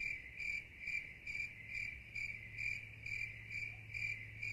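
Cricket chirping steadily and evenly, about two chirps a second.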